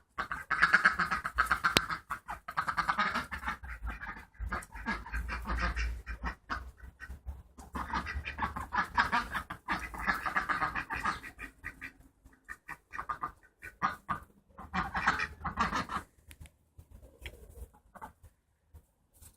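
A duck calling in several bursts of rapid pulsed chatter, with scattered clicks and knocks between the bursts.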